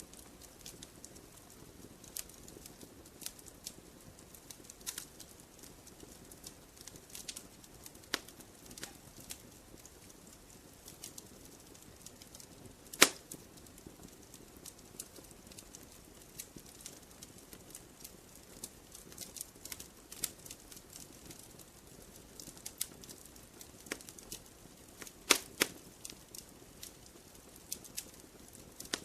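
Wood campfire burning: a low steady rumble of flames under irregular sharp crackles and pops, the loudest pop about halfway through and several more near the end.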